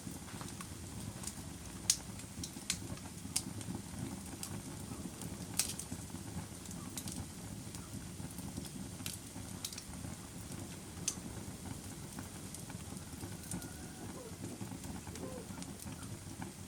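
Fire burning in a fireplace: a steady low rustle of flames with scattered sharp crackles and pops, several in the first few seconds and a few more later.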